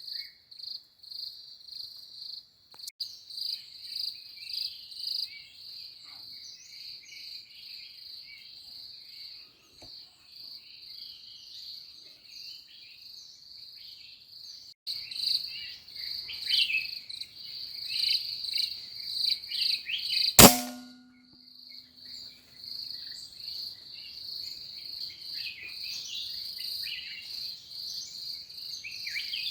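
Insects trill steadily in a high pulsing drone while small birds chirp, busier in the second half. About two-thirds of the way in, one sharp crack, the loudest sound, with a brief low ring after it: an air rifle shot.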